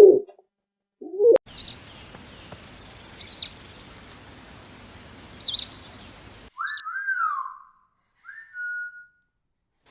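Bird calls: short high chirps and a high buzzing trill over a background hiss, then, after a sudden cut about six and a half seconds in, a few clear whistled notes that rise and fall.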